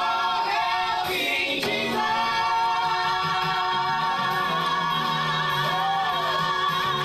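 Choir singing a worship song, the voices settling into one long held note about two seconds in.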